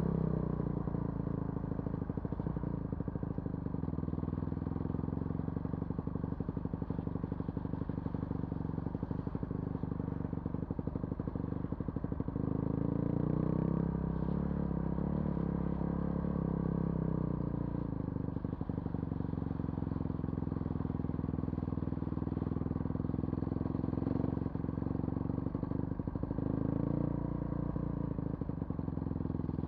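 Vehicle engine running steadily under light load while driving, its pitch rising and falling gently a couple of times.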